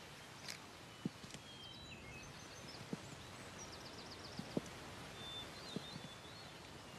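Faint outdoor ambience with small birds chirping now and then, including a quick run of chirps about halfway through, and a few soft low knocks.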